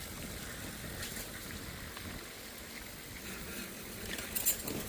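Steady low rumble of wind and rolling noise from a moving bicycle, with a couple of sharp clicks near the end.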